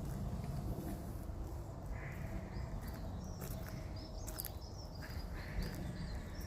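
Birds chirping in short, high calls, clustered in the middle and again near the end, over a steady low rumble.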